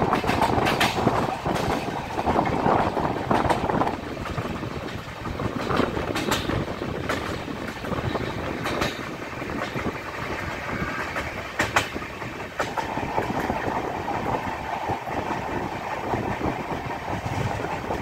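Passenger train coach running at speed, heard from its open doorway: a steady rumble with irregular sharp clacks of the wheels over rail joints. It is a little louder for the first few seconds.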